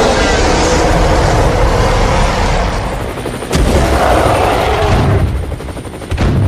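Battle sound effects: rapid gunfire with booms, loud and dense, with one sharp bang about halfway through.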